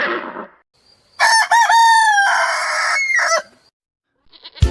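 Rooster crowing once, a loud cock-a-doodle-doo lasting about two seconds. Before it, the wavering end of a horse's whinny fades out, and a rapid run of clicks begins near the end.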